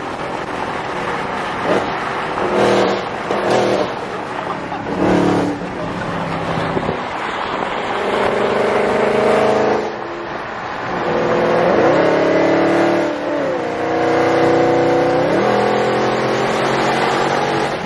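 Car engine running and being revved, its pitch climbing and falling a couple of times in the second half.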